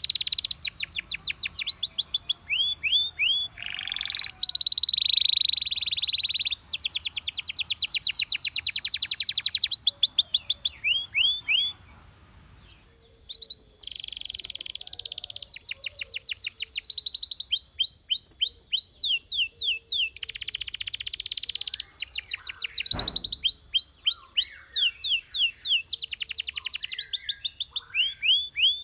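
Belgian canary singing in long fast trills of rapidly repeated high notes, changing from one trill to the next, with a pause of a second or so near the middle. A single thump sounds a little past three-quarters of the way through.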